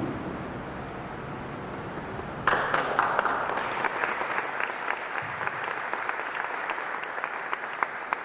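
An audience applauding. The clapping breaks out suddenly about two and a half seconds in and keeps going steadily.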